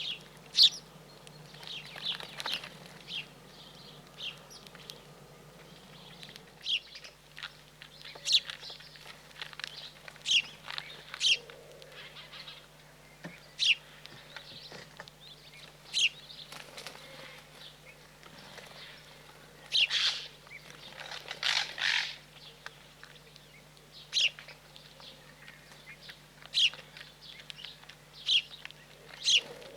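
Small wild birds chirping: short, sharp, high chirps, about one every second or two, with a few quick runs of calls together.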